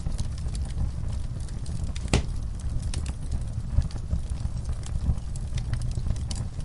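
Wood fire in a fireplace crackling over a steady low rumble, with scattered small pops and one sharper crack about two seconds in.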